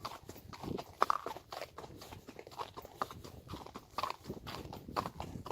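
Ridden horse's hooves clip-clopping in a steady, even rhythm.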